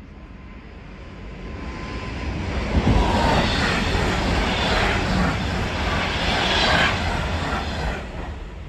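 Passenger train passing through the station without stopping at about 178 km/h: the rush of the train builds over the first few seconds, stays loud with a few surges as the cars go by, then falls away near the end.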